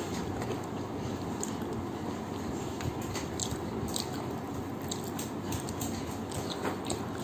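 Eating chicken curry by hand: chewing and wet mouth sounds as meat is picked off a chicken drumstick, with small clicks and smacks scattered throughout over a steady low background noise.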